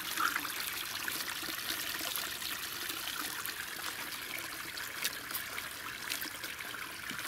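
Water trickling steadily through a leak in a small dam, with faint small splashes.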